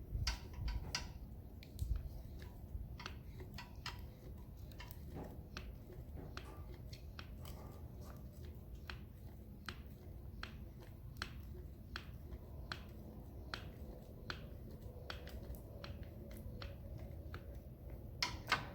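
Hand-pumped grease gun forcing grease into a tractor's grease zerk: a long run of short sharp clicks, about two a second.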